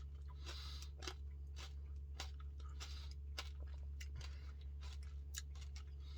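Chewing a mouthful of peanut butter puppy chow Blizzard, with irregular wet crunches and mouth clicks from the crunchy coated cereal pieces in the soft-serve, over a steady low hum.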